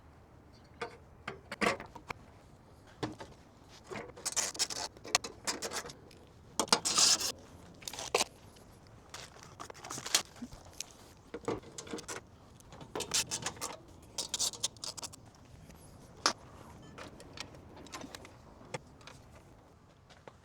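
Irregular metallic clinks, clicks and short jingling rattles of hand tools and loose hardware, with the odd scrape, as a cooling fan is fitted in a car's engine bay.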